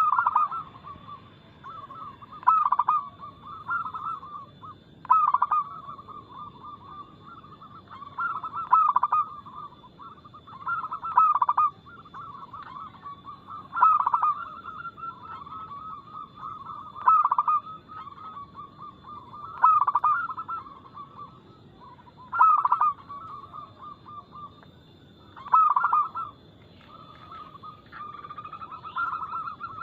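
Zebra dove (perkutut) cooing: a short, loud phrase of quick notes, repeated about every two and a half to three seconds.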